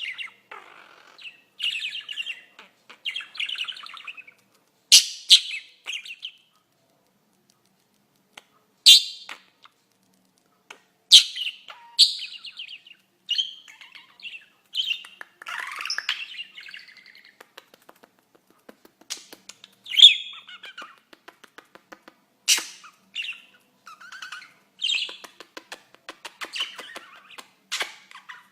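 A small pet bird chirping in short, scattered calls, with brief sharp clicks between them and a pause of a few seconds about a third of the way through.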